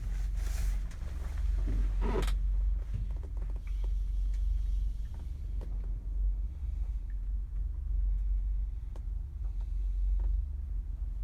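Low, fluctuating wind rumble buffeting the microphone, with a brief louder rush about two seconds in and a few faint clicks.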